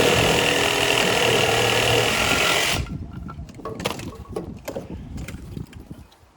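Electric power saw running loud and steady with a high whine as it cuts a length of timber, stopping abruptly about three seconds in; scattered knocks and clatter of wood being handled follow.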